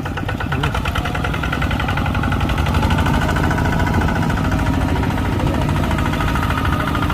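Diesel engine of heavy earthmoving machinery running with a fast, even firing beat, growing louder over the first few seconds and then holding steady.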